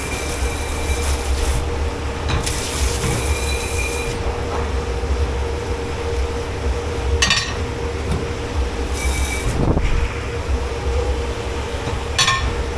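Dish pit at work: three short bursts of spraying water hiss over a steady low machine hum, and twice a brief high squeal, like metal or plastic scraping, cuts through.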